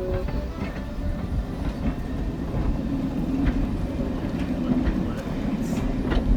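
Train running along the track, heard from on board: a steady low rumble and hum with occasional clicks of the wheels over the rails.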